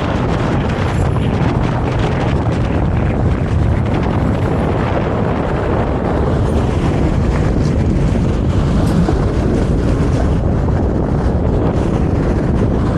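Steady rumble of a Vario LF2R.E tram running along the track, wheels on rails and drive noise, heard from inside the car.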